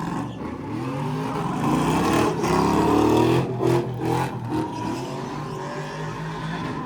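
Car engine revving hard, its pitch rising and falling several times, loudest a couple of seconds in.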